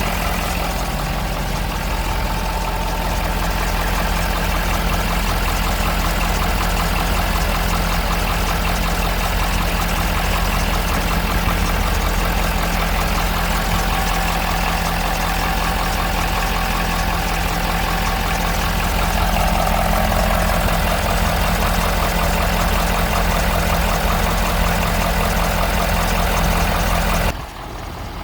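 A Ford 6.7-liter Power Stroke V8 diesel idling steadily. Its level drops suddenly about a second before the end.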